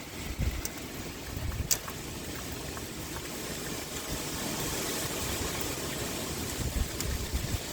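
Rain pouring steadily with gusty wind rumbling low underneath, and a sharp tick about two seconds in.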